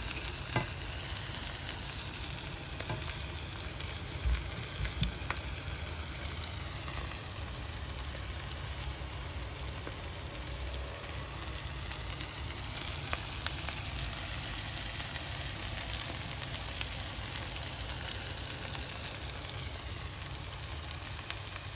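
Giant prawns sizzling steadily in garlic butter in a frying pan, with a couple of sharper pops or knocks about four to five seconds in.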